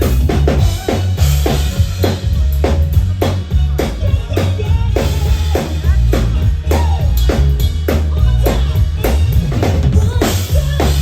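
Live band playing through a stage sound system: a drum kit keeps a steady beat of about three hits a second over heavy bass.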